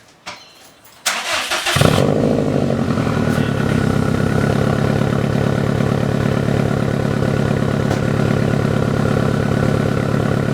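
A Subaru WRX STI's turbocharged flat-four is cranked on the starter and catches within about a second, then idles steadily through a freshly fitted titanium 3-inch single-exit straight exhaust. This is the exhaust's first start, when it is checked for leaks.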